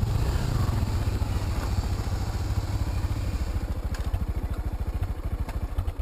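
Motorcycle engine running at low revs with an even pulsing beat that slows slightly toward the end, then cuts off suddenly.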